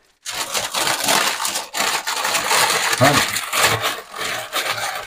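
Aluminium foil being crumpled and folded by hand to wrap food into a parcel: a continuous crinkling rustle with a couple of short pauses.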